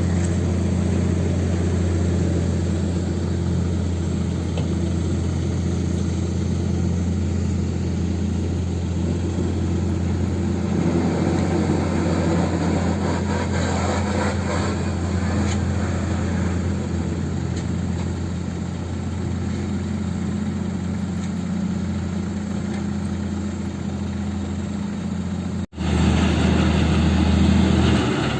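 Heavy diesel engine running steadily at a low, even speed. It cuts out abruptly near the end and comes back slightly louder.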